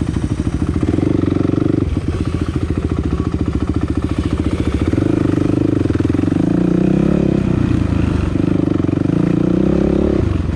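Dirt bike engine running close to the mic while riding a trail at low speed. Its note shifts with the throttle, choppy for the first few seconds, then steadier with dips and rises.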